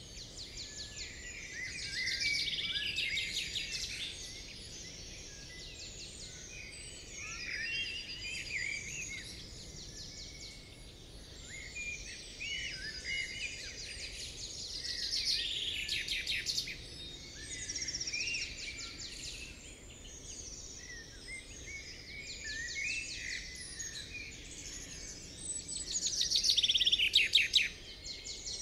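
Songbirds singing: a steady mix of short chirps and rapid trills, with the loudest trill near the end, over a faint steady hiss.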